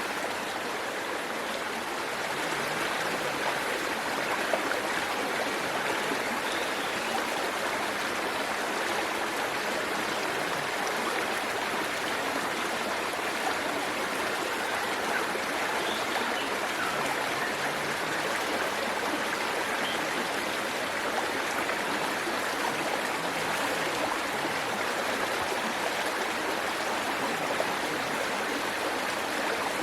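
Waterfall water rushing and splashing in a steady, unbroken stream.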